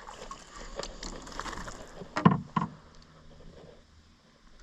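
Two sharp knocks against the canoe, about half a second apart, a little over two seconds in, over faint steady background noise.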